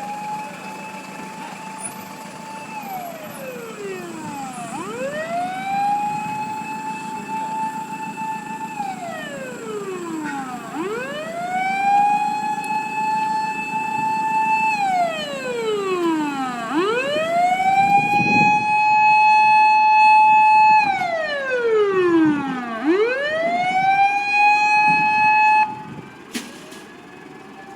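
Fire engine siren wailing: each cycle sweeps up quickly, holds a high note for several seconds, then slides back down, about five times over. It grows louder as the engine approaches, then cuts off near the end.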